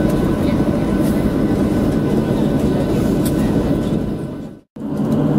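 Steady cabin rumble of a Boeing 737-600 taxiing with its jet engines at idle, with a few faint clicks. It fades out about four and a half seconds in, and a steady hum with a low drone comes in after.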